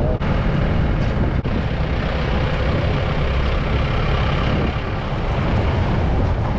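Mahindra Bolero Maxi Truck Plus pickup driving along a road, a steady run of engine and road noise heard from aboard the vehicle.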